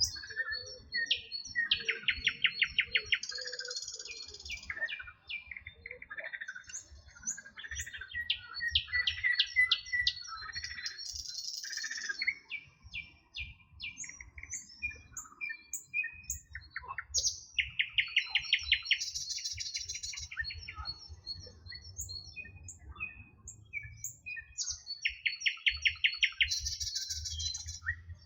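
Songbirds singing and chirping, with one song repeating about every eight seconds: a fast trill of rapid notes followed by a short, higher buzzy phrase, and scattered shorter chirps between.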